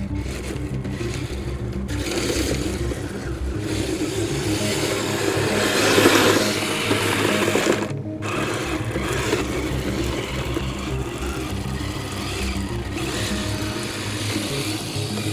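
Electric motors of a Kyosho Blizzard RC snow cat whirring as it drives its tracks, louder around the middle.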